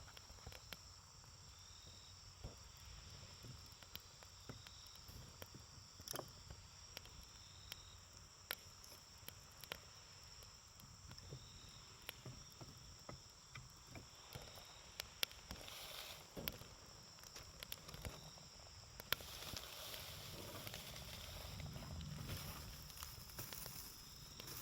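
Wood campfire crackling, with scattered sharp pops and a hissing flare that builds over the last few seconds. Behind it, insects keep up a steady high-pitched trill.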